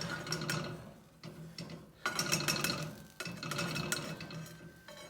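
Spatula scraping and pushing under an omelette stuck in a frying pan, in several rough bouts of about a second each with small clicks of utensil on pan, while it is worked loose for flipping.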